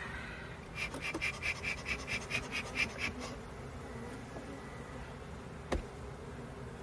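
Honey bees buzzing steadily around an opened hive, agitated by the inspection. About a second in comes a rapid run of about a dozen clicks, roughly five a second, and a single sharp click near the end.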